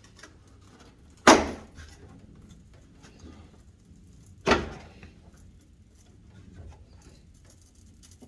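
Two sharp clacks about three seconds apart, with faint small clicks between them: a cab wall vent on a 1974 Ford F100 being worked loose by hand.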